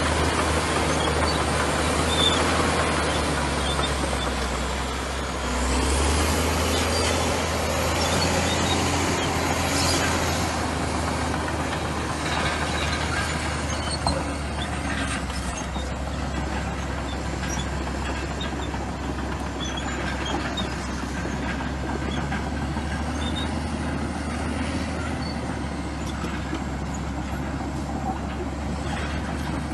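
Komatsu bulldozer's diesel engine running steadily at work, with scattered metallic clicks and squeaks from the machine and its tracks.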